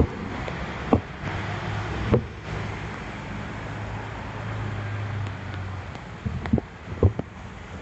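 Wind and rain rushing over a phone's microphone while cycling, with road and traffic noise, a low steady hum for most of the stretch and several sharp knocks.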